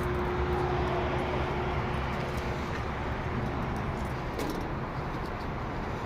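Trane 25-ton package air-conditioning unit running: a steady mechanical hum and whir, with a steady tone that fades out about two seconds in.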